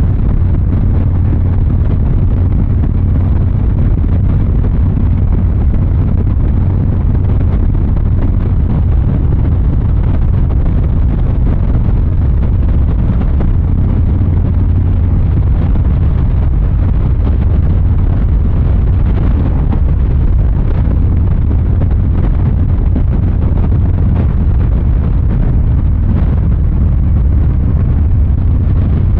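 Harley-Davidson Fat Boy 114's Milwaukee-Eight 114 V-twin exhaust running steadily at a low, even engine speed while riding, with wind noise on the microphone.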